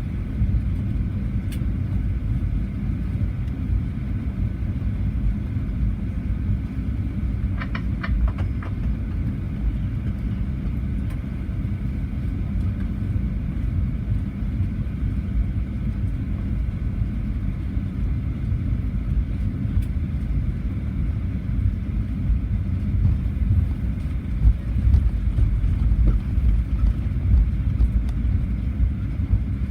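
Steady low rumble inside the cabin of a Boeing 737-800 taxiing after landing: engines at idle and the undercarriage rolling over the taxiway, growing a little louder near the end. A few brief clicks sound about eight seconds in.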